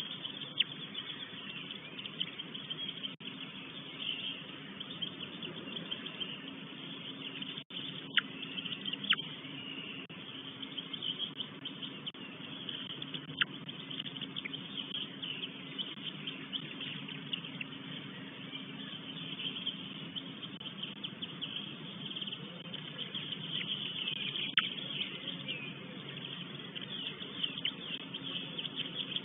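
Small forest birds chirping and singing in a steady background chorus, with a few sharper single calls, over a steady low hum.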